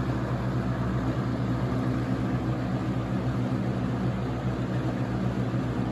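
Early-1990s Toastmaster 4437 box fan running steadily on medium speed: an even motor hum under the rush of air from the blades, which are out of balance.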